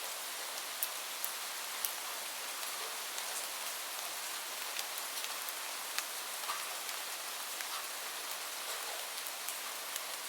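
Steady gentle rain hiss with scattered sharp crackles from a wood fire, a few each second.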